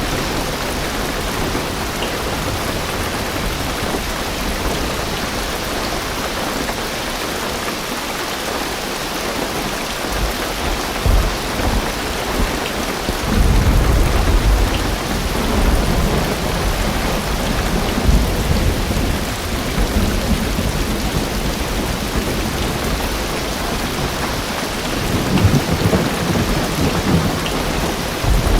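Heavy rain drumming steadily on a car roof, heard from inside the car, with distant thunder rumbling low, loudest about halfway through and again near the end.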